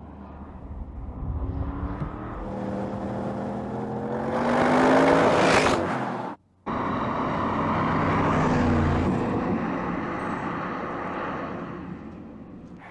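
Audi RS6 Avant's 4.0-litre twin-turbo V8 accelerating, its note rising through the revs and growing louder as the car comes past. The sound cuts out for a moment about six seconds in, then the engine runs on and fades as the car moves away.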